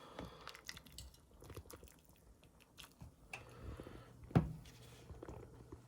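Faint chewing as a boiled macaroni noodle is tasted to check whether it is done, with small clicks throughout and one sharper knock about four and a half seconds in.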